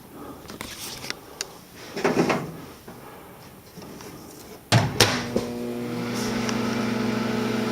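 Amana LD10D2 microwave oven: a few light clicks and a brief rustle of handling, then about two-thirds of the way in a sharp click as it starts and a steady electrical hum of the oven running.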